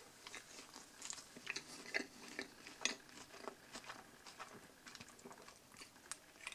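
A person biting into and chewing a Hamburger Royal TS burger, with its soft sesame bun and shredded lettuce: irregular soft wet clicks and smacks of chewing, a little louder about two and three seconds in.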